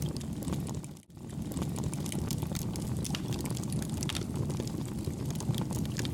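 Campfire burning: a steady low rumble of flames with many small crackles and pops scattered through it. The sound drops out briefly about a second in and then carries on.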